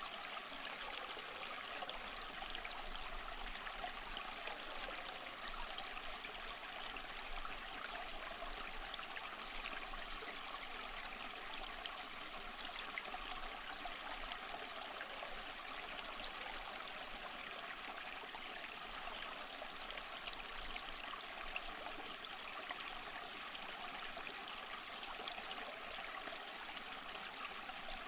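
Steady rushing water of a waterfall or stream, an even hiss weighted toward the high end.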